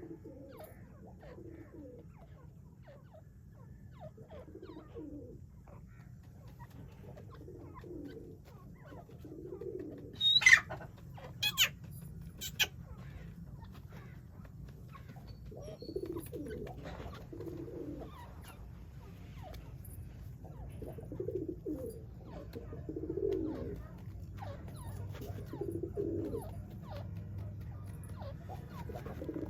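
Pigeons cooing over and over in low, soft phrases. Three sharp, loud clicks come about ten to thirteen seconds in, over a steady low hum.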